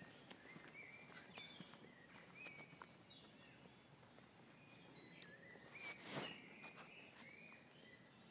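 Birds singing: a run of short, high chirps and whistled notes, with a brief, louder rustle about six seconds in.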